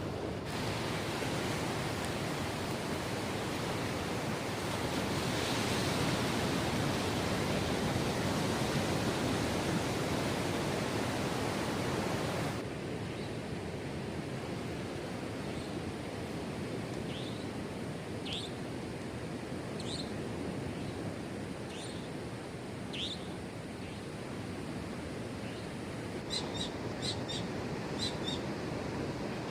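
Steady rush of waves breaking on the beach at night. The sound changes abruptly about twelve seconds in. From the middle on, scattered short high chirps come through, with a quick run of them near the end.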